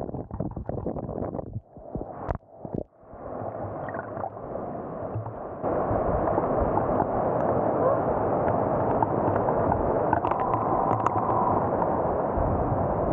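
Heavy rain pouring down, heard as a steady, muffled rushing of water. It follows a few seconds of choppy, broken noise and grows louder about six seconds in.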